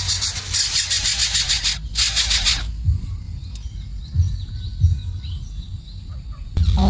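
Birds chirping over outdoor background noise: a loud high hiss with a pulsing rhythm for the first couple of seconds, then quieter, with faint short chirps and a few low thumps.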